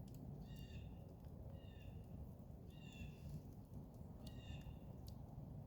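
A campfire crackling with scattered sharp pops over a steady low noise, while a bird gives four short calls about a second and a quarter apart.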